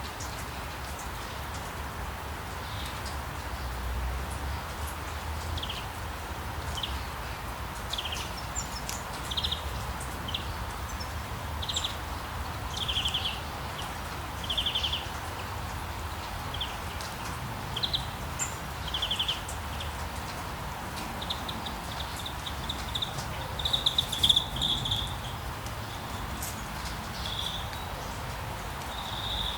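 Steady rain falling, with a low rumble underneath. Over it a songbird gives short trilled call notes about once a second, turning into a quicker run of calls in the second half, loudest about two-thirds of the way in.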